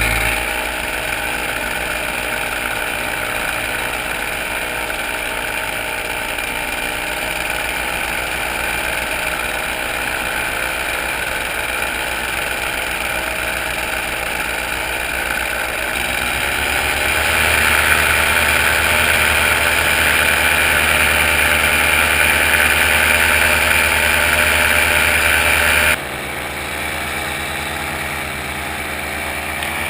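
Engine running steadily, with the sound changing abruptly twice, about sixteen and twenty-six seconds in. It is louder in the middle stretch.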